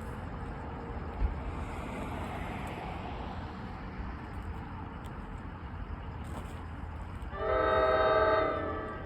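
Steady rumble of a train, then about seven seconds in a locomotive's multi-chime air horn sounds one short blast of about a second.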